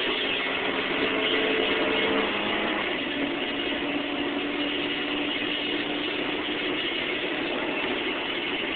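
Stock Chevrolet Cobalt's four-cylinder engine at full throttle on a drag run, heard from inside the cabin over road and wind noise. Its pitch climbs, drops at an upshift about two and a half seconds in, then climbs slowly again.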